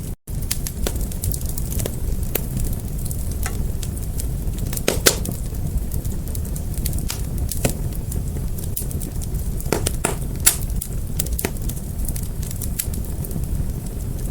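Fire crackling, with a steady low rumble of flame under irregular sharp pops and snaps, two of them louder about 5 and 10 seconds in. The sound cuts out for a split second right at the start.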